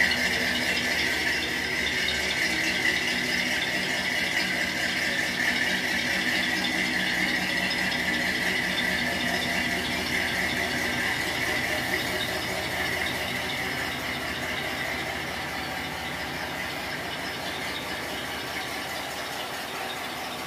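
Original 265 V8 engine running, with a steady high-pitched squeal over it. The sound slowly fades in the second half.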